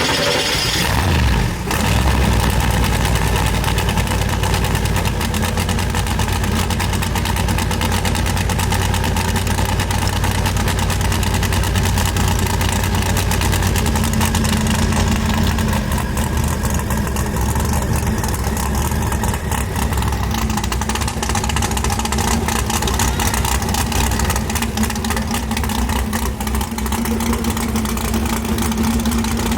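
Car engine running steadily and loudly, a low even drone that settles in about a second and a half in.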